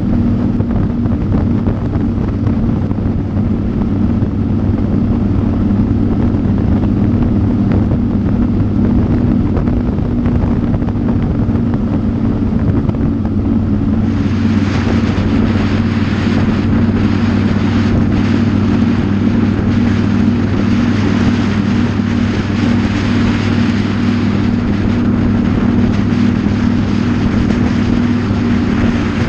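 Motorcycle engine running at a steady cruising speed, with wind rushing over the microphone. About halfway through, the wind hiss grows louder while the engine note stays the same.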